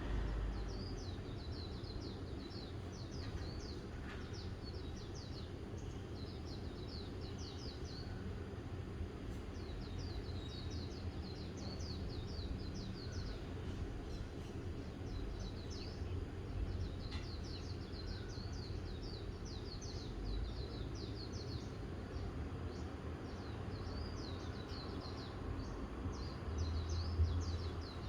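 Small birds chirping in short, rapid, high-pitched runs of notes, repeated every second or two, over a steady low rumble of outdoor background noise.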